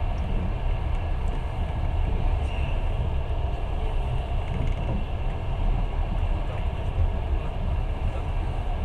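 Passenger train running at speed: a steady low rumble of wheels on the rails.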